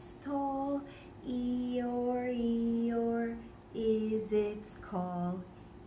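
A woman singing a slow children's phonics verse in a few phrases of held notes, with short breaths between them.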